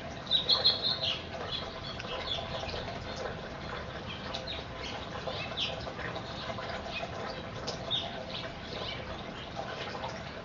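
Small birds chirping in short, high notes, with a quick run of louder chirps in the first second.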